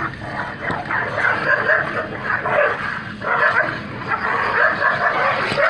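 Dogs fighting, barking and yelping almost without pause, with brief breaks about a second apart early on and about three seconds in.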